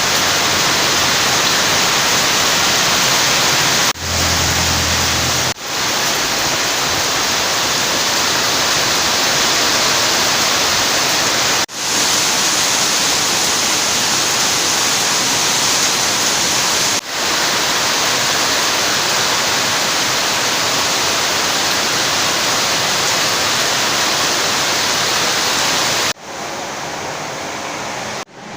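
Heavy rain pouring down, a loud, dense, steady hiss. Several brief sudden dips break it, and it turns quieter and duller a couple of seconds before the end.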